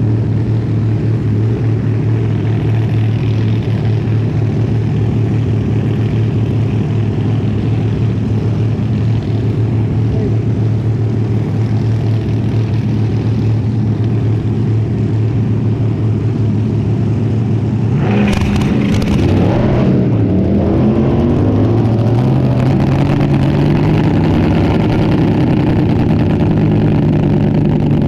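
Front-engine dragster's engine running steadily. About two-thirds of the way through there is a brief burst of noise and the pitch wavers, then the engine settles at a slightly higher, steady speed.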